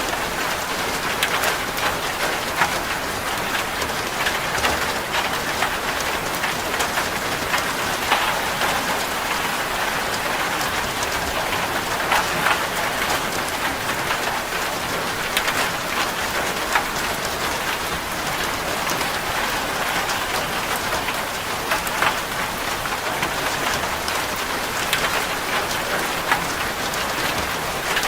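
Rain falling on a corrugated zinc roof: a steady patter with many sharp individual drop ticks on the metal.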